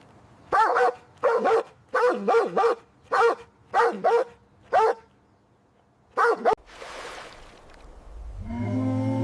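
An animal giving about nine short, sharp barking calls, some in quick pairs, over about six seconds. A low, steady, music-like sound fades in near the end.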